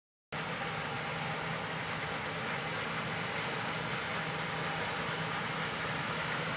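John Deere S670 combine harvester running steadily in a soybean field: an even machine hum under a wide hiss, cutting in abruptly a moment after the start.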